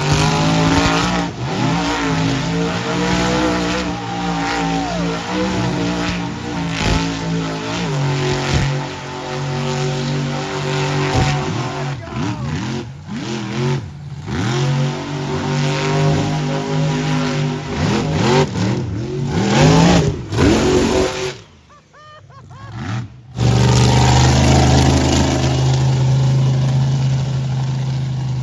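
Monster truck engines revving, the pitch repeatedly climbing and falling, with several abrupt breaks. After a brief dip about three-quarters through, an engine runs at a steady speed.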